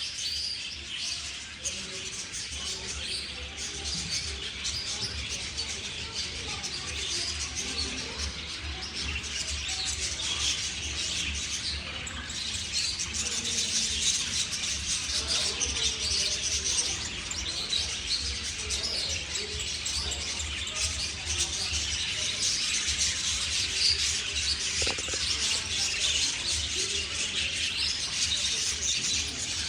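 Parrots chirping and chattering in a dense, continuous stream, over a steady low hum.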